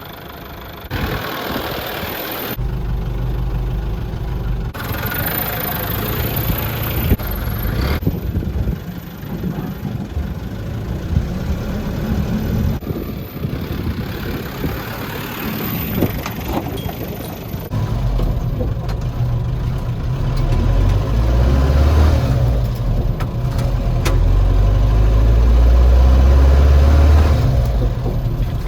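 Nissan ED30 diesel engine of a Caball C240 dump truck running, with sudden shifts in its sound in the first few seconds. It grows louder and heavier from about two-thirds of the way through.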